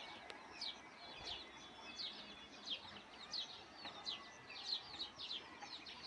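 Birds chirping faintly: a steady run of short, high chirps that sweep downward, about three a second.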